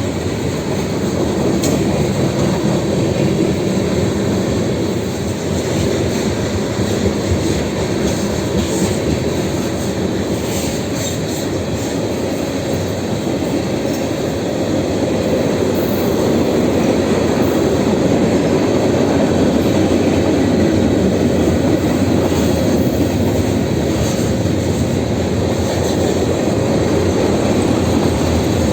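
Freight train rolling past, its cars' wheels running on the rails in a steady continuous rumble that grows a little louder about halfway through.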